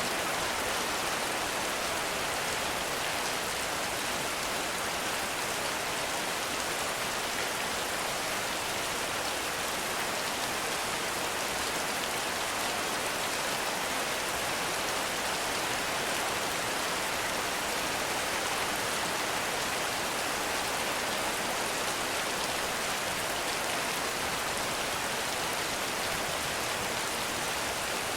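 Heavy rain falling steadily, an even, unbroken hiss of many drops with no thunder.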